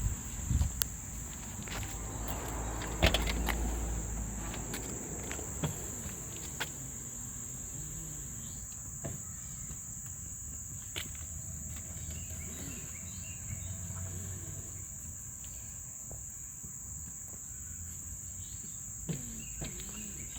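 Steady high-pitched insect chorus, with scattered clicks and knocks and one louder thump about three seconds in.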